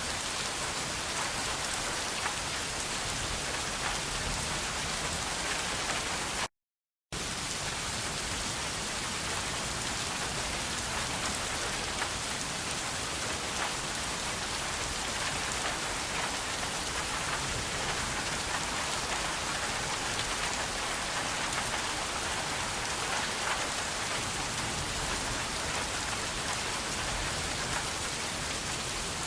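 Steady rain falling, an even hiss of many drops. The sound cuts out completely for about half a second some six seconds in, then resumes unchanged.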